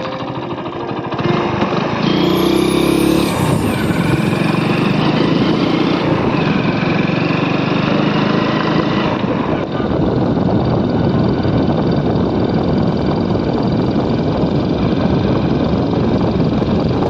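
Motorbike riding noise: engine and wind rushing on the microphone, a steady dense noise that grows louder about a second in.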